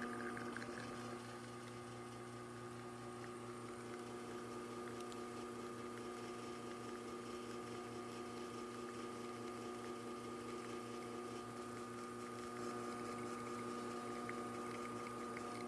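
Alex Duetto espresso machine's pump running steadily while pulling an espresso shot, a constant hum of several fixed tones. It is building brew pressure against a puck ground too fine.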